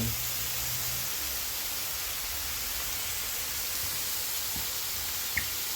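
Marinated beef short ribs sizzling steadily on a hot skillet.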